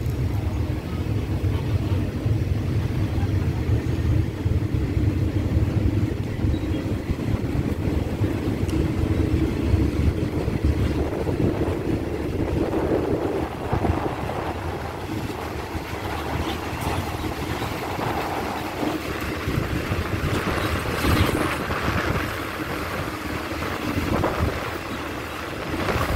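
Passenger train moving off slowly, heard from an open carriage window: a steady low rumble from the train, with wind on the microphone.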